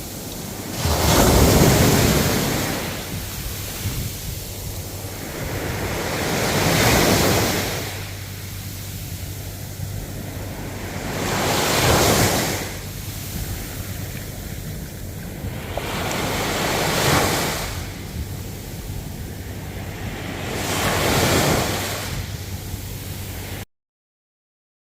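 Ocean waves breaking on the shore: a steady wash of surf that swells loud about every five seconds as each wave comes in, five times, then cuts off suddenly near the end.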